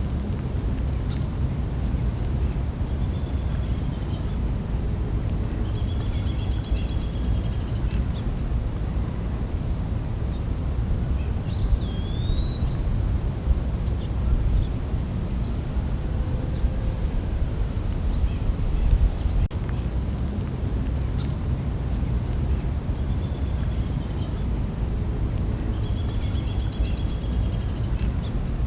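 Night-time forest insect chorus: crickets chirping in runs of short pulses, about four a second, over a continuous high insect drone and a low rumble. A few short bird calls break in, twice near the start and twice near the end.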